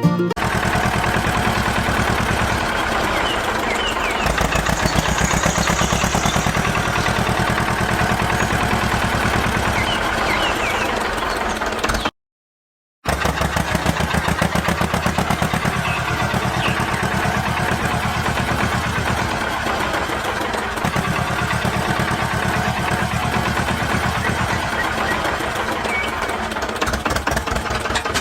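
An engine-like motor running steadily with a rapid, even pulsing beat, cut off for about a second partway through before it resumes.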